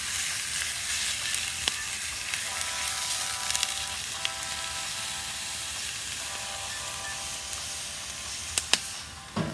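Ground beef sizzling and frying in a hot pan, with a few sharp clicks about two seconds in and twice near the end, and a low thump at the very end. Faint background music comes in from about two and a half seconds in.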